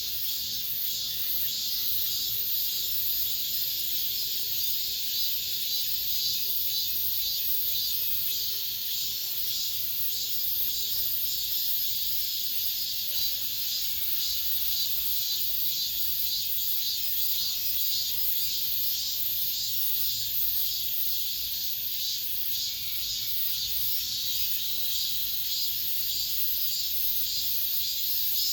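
Cicadas singing in a dense, steady chorus: a high, shrill buzz with a fast pulsing texture.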